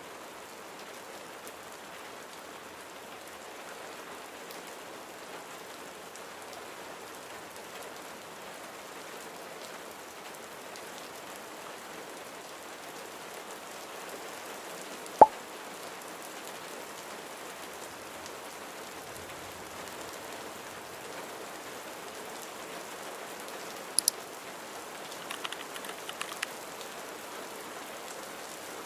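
Steady rain falling, an even hiss of drops throughout. A single sharp click cuts through about halfway, and a couple of quick ticks and a few faint clicks come near the end.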